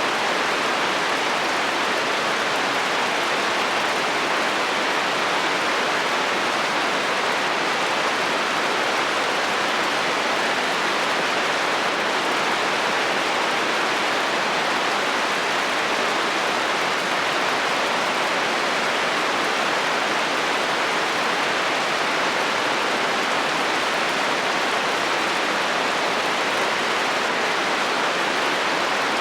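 Heavy rain drumming steadily on a metal roof, an even hiss with no breaks or thunder.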